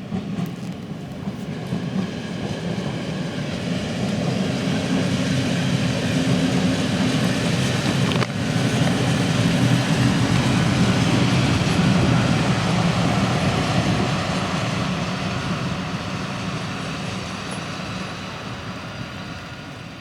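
A train passing close by: a steady rumble of wheels and running gear that grows louder, peaks around the middle, then slowly fades.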